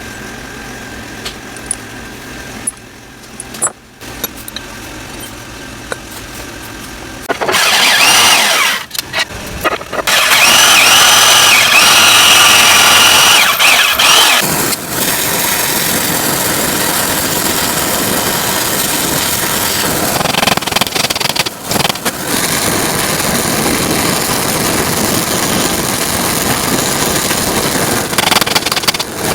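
Tattoo machine built from railroad-tie nails, buzzing as it runs. It starts about seven seconds in and is loudest for a few seconds with a high whine, then settles into a steady buzz with a couple of brief dropouts.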